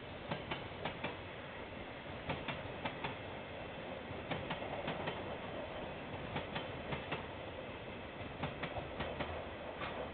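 Train wagons rolling past, their wheels clicking over a rail joint in repeating groups of four, one wagon's two bogies roughly every two seconds, over a steady rumble of the train.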